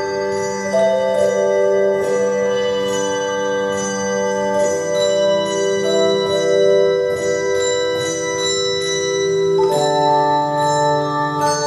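Instrumental music of bell-like struck tones ringing out in sustained chords. The chord changes twice, about five seconds apart.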